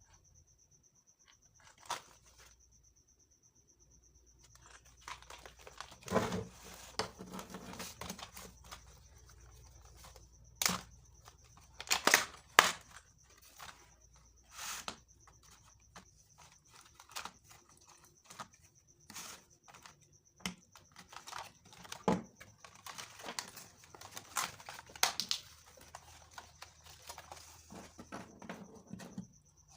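Packaging and parts being handled while unboxing a cordless mini grinder: crinkling plastic wrap and tearing, with scattered clicks and knocks of hard plastic pieces being picked up and set down. A faint steady high-pitched tone runs underneath.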